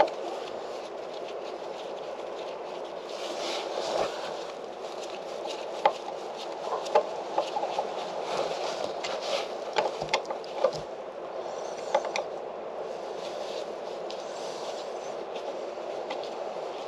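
Scattered knocks, clicks and scraping of wooden boat fittings being pried and pulled loose, over a steady background hiss.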